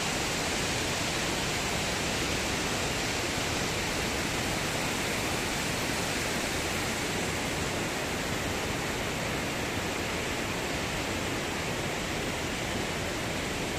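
A steady, even rushing noise that does not break or change.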